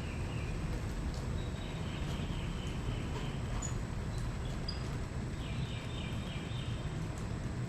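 Repeated pulsed animal calls, trills of a second or two each, over a steady low rumble.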